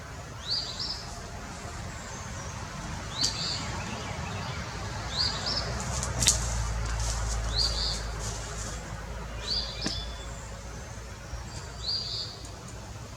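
A bird repeating a short chirping call about every two seconds. There is a single sharp snap about six seconds in.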